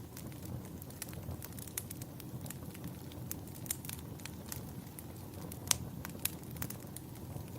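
Campfire burning: a steady low rumble of flames with irregular sharp crackles and pops from the burning wood, the loudest pop about two thirds of the way through.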